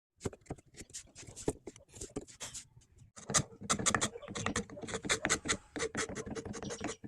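Wood being worked by hand: a quick, uneven run of scratching and tapping that starts abruptly, with a faint steady tone joining about three seconds in.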